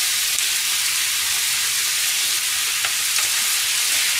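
Chopped vegetables and minced meat frying in oil in a frying pan: a steady sizzle, with a few light knocks of a wooden spatula about three seconds in.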